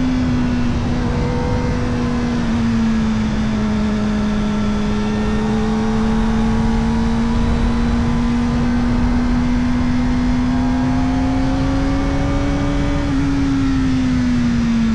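Kawasaki Ninja ZX-4RR's 399 cc inline-four running through an Arrow Indy Race Evo titanium exhaust with its dB killer fitted. The bike holds a fairly steady engine note at road speed, rising gently and then dropping as the throttle eases near the end, over a rush of wind noise.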